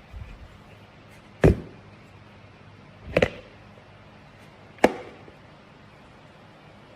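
Three sharp knocks or clacks, each short and reaching high and low, spaced about a second and a half apart.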